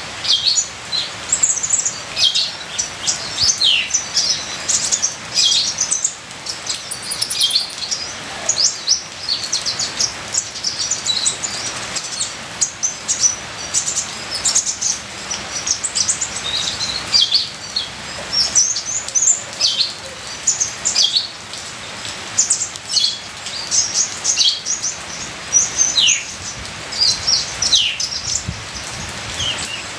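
Van Hasselt's sunbird (kolibri ninja) singing a rapid, continuous string of high, thin chirps and short falling twitters, over a steady hiss of trickling water.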